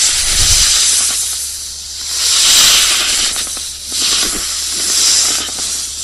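An animal hissing: three long, breathy hisses about two seconds apart.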